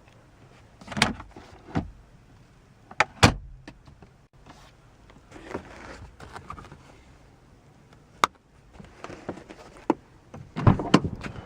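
Clicks and knocks from the interior fittings of a 1992 Nissan Stanza being handled, a dozen or so sharp clicks in scattered groups with a couple of brief scraping stretches between them.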